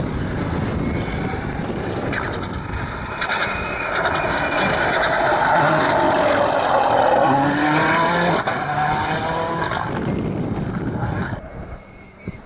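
Rally car at full throttle passing by, its engine revving with rising pitch through the gears and a break around two-thirds of the way in, then fading away near the end.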